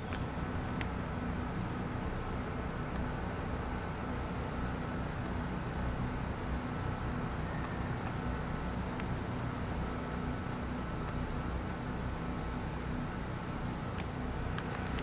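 A small bird gives short, high-pitched chirps, roughly one a second and irregular, over a steady rush of storm wind.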